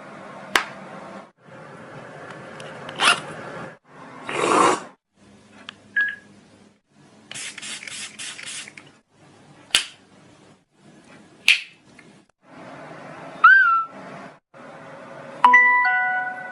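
A run of short, separate sound effects made by a person, cut one after another with brief silences between them: sharp clicks, a quick rattle of about five strokes, a short gliding tone and, near the end, a doorbell-like ding of a few steady stepped tones.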